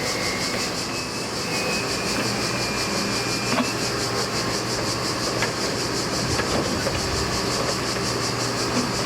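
Freight train rolling slowly over the siding: a steady rumble with a faint wheel squeal near the start and a few scattered clicks from the wheels over the rail joints.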